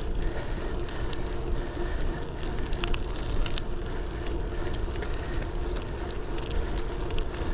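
Folding bike rolling along a paved path, picked up by a GoPro's built-in microphone under a foam wind cover. A steady low rumble of tyres and wind runs underneath, with scattered small clicks and rattles.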